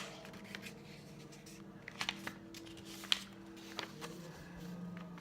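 Sheet of paper being handled and folded by hand, with a few sharp crisp crackles as the folds are creased, over a faint steady hum.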